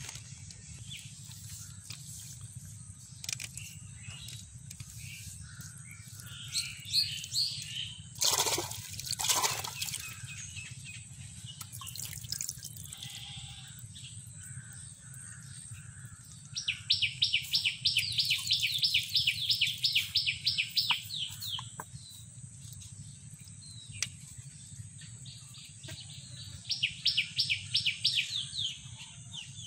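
Birds calling over a steady high insect drone and a low hum: a few scattered calls, then a bird's fast trill of rapidly repeated notes for several seconds about halfway through, and a shorter trill near the end.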